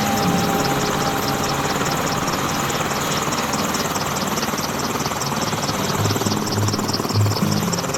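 Military helicopter running with its rotors turning: a steady, loud engine-and-rotor noise with a fast even pulsing.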